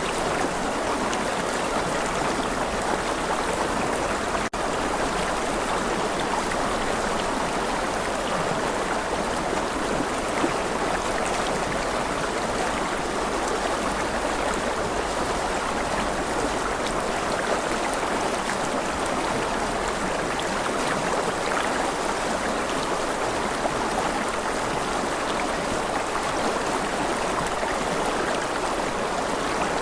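Steady rushing of flowing stream water, an even wash of noise without a break except for a momentary dip about four and a half seconds in.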